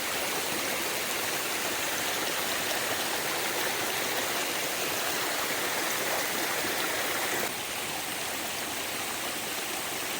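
Steady rushing of water, an even hiss that steps down slightly about seven and a half seconds in.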